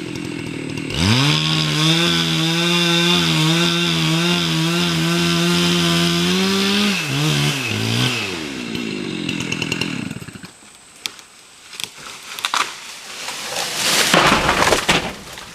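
Two-stroke chainsaw revving up about a second in and running at full throttle for several seconds, then dropping back and dying away. A few sharp cracks follow, then a loud crash near the end.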